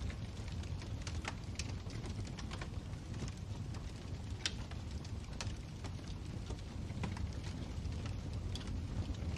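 Wood fire in a fireplace crackling: irregular sharp pops and snaps over a steady low rumble of the burning.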